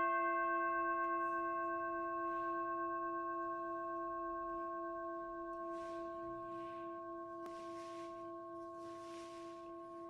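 A single handpan note, struck just before, ringing on by itself and slowly fading, its bright overtones sounding with it. Faint soft rustling about six seconds in and again near eight seconds.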